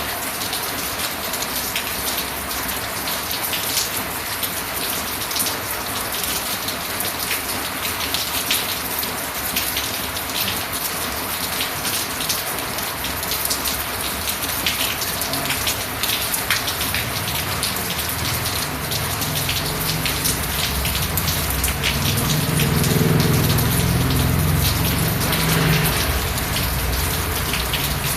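Steady rain falling, a continuous hiss with scattered sharp drop ticks. A low rumble builds about two-thirds of the way in and is loudest shortly before the end.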